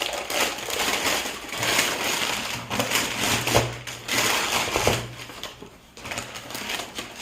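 Packaging crinkling and rustling as grooming products are unwrapped and taken out of a box, a dense crackle of many small clicks with no pause.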